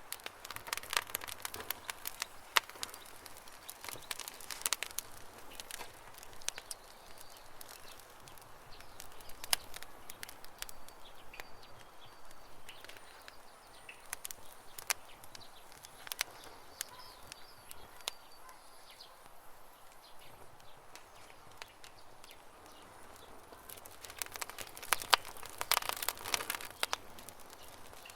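Wood campfire crackling and popping, with flurries of sharp pops near the start and again near the end. Birds chirp faintly in between.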